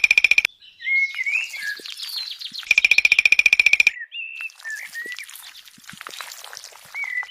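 Birds calling: short whistled chirps that slide up and down in pitch, with two rapid, buzzy trills, one right at the start and one lasting about a second near the middle.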